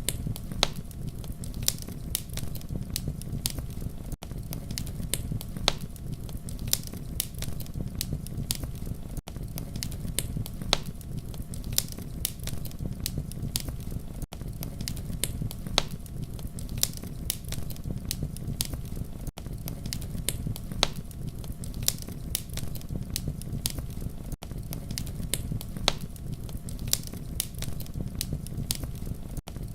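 Campfire crackling steadily: a low rumble of burning wood with frequent sharp pops and snaps. A brief gap recurs about every five seconds.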